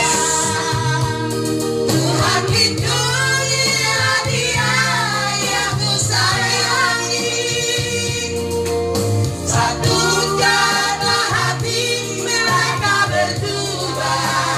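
A group of women and men singing a song together over backing music with steady bass notes.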